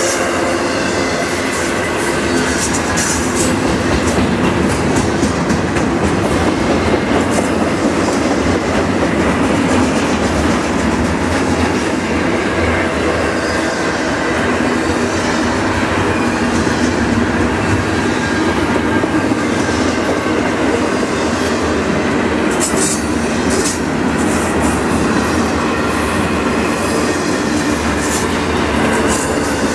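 Double-stack container well cars of a freight train rolling past: a steady loud rumble of steel wheels on the rails, with a scatter of sharp clicks.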